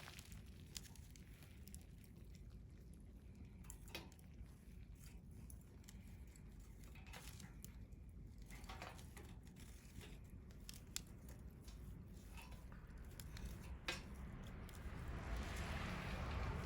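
Wood campfire crackling, with scattered sharp pops over a steady low rumble. A soft rush of noise swells near the end.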